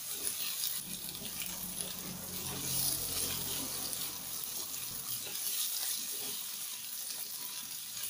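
Diced onion and sliced tomatoes sizzling in hot oil in a frying pan as the tomatoes are tipped in and stirred with a silicone spatula, with light scraping and clicks. A low hum stops about five seconds in.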